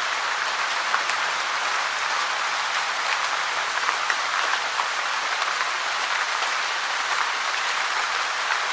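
Steady rain falling: an even hiss dotted with many small, sharp drop ticks, unchanging throughout.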